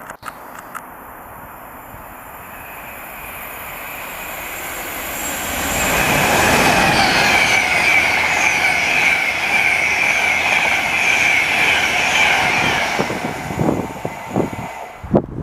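A train approaching and passing close by, building up over several seconds, with a high, wavering wheel squeal through the loudest part. It then dies away, with a few low thumps near the end.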